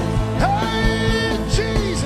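Live gospel worship music. A singer slides up into a long held note over the band's chords and a steady drum beat.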